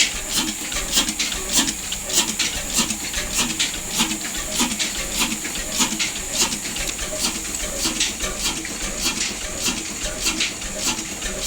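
Large diesel engine running at a slow, steady beat, about two to three knocks a second, over a steady rushing hiss.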